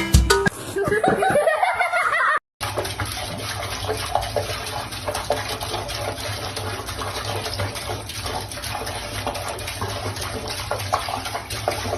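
A short run of sliding, wavering sounds, then after a brief cut a steady rush of running water, like a tap or bathtub filling.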